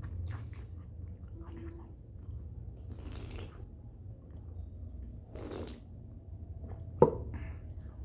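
Close-up eating sounds of chicken and rice: chewing, with two short mouth noises a little after three and five seconds in. A single sharp click comes about seven seconds in, over a steady low hum.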